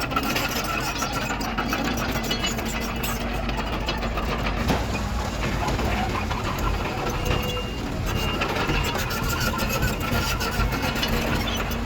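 Heavy diesel earthmoving machinery running steadily, with constant rattling and clanking over the engine drone.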